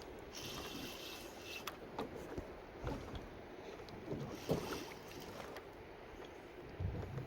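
Sounds aboard a small fishing boat at sea: water slapping against the hull, with scattered clicks and knocks, a brief high hiss near the start and a couple of dull thumps later on.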